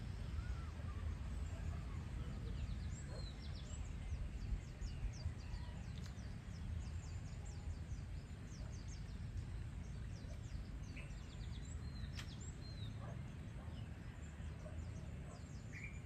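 Birds chirping and calling: many short, high notes scattered throughout, over a steady low rumble.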